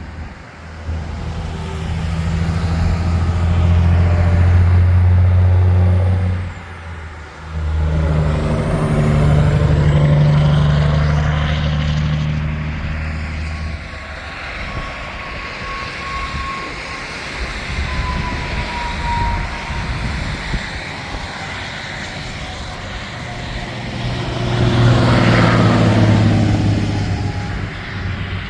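Heavy trucks passing one after another on an interstate highway: diesel engine drone and tyre noise swell and fade. The three loudest passes come about five seconds in, about ten seconds in, and near the end.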